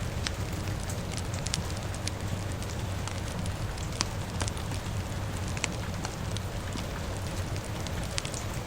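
Crackling fire with irregular sharp pops, one louder about four seconds in, over a steady hiss and low rumble of falling rain.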